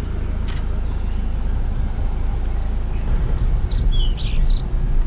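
Steady low rumble of a car running, with a quick series of five or so short, falling bird calls in the second half.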